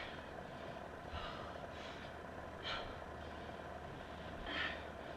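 A woman's hard breathing during burpees: about four short, forceful breaths through nose or mouth, spread over a few seconds, over a steady low room hum.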